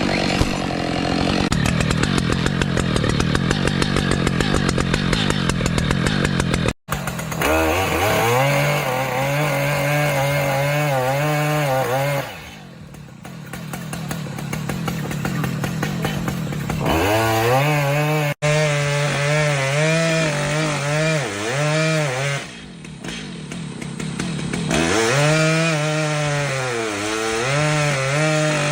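Two-stroke chainsaw running at high revs and cutting wood, its pitch wavering and sagging under load. It drops back toward idle twice between cuts, and the sound breaks off abruptly at about 7 s and 18 s.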